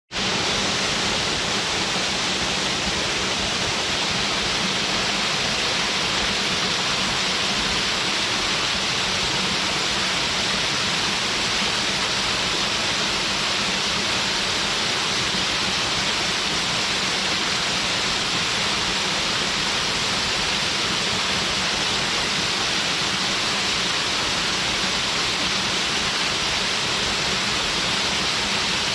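Waterfall: water falling and splashing into its pool, a steady, even rush.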